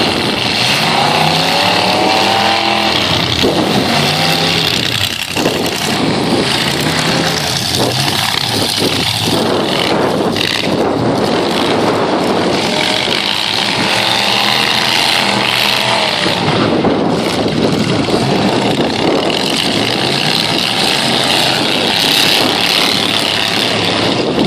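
Several half-ton pickup truck engines running loud in a demolition derby, revving up and down over and over.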